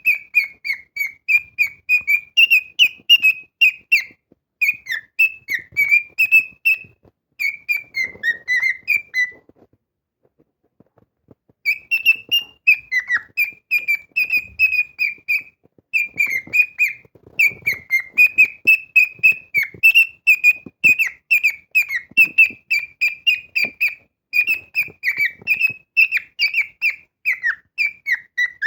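Male cockatiel singing a fast whistled song of short repeated notes, broken by a pause of about two seconds near the middle.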